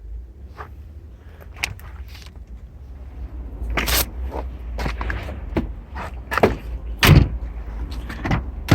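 Scattered clunks, knocks and clicks from handling an old car's doors and panels, the loudest about seven seconds in, over a low wind rumble on the microphone.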